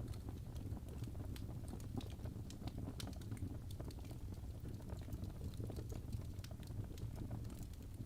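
Wood fire burning in a fireplace: a steady low rumble of the flames with frequent irregular crackles and pops of the burning logs.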